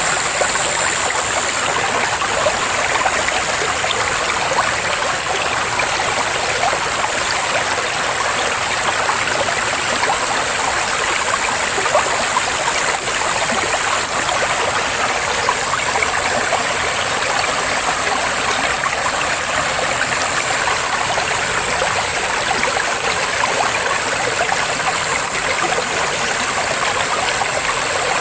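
Forest stream flowing steadily, an even rush of water with fine trickling, with a steady high-pitched hiss above it.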